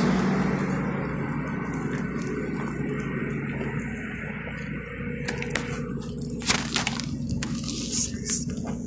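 Steady low machine hum, with several sharp clicks and knocks in the second half.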